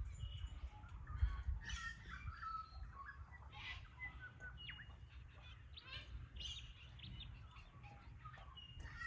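Many short bird chirps and calls, scattered and overlapping, over a low rumble.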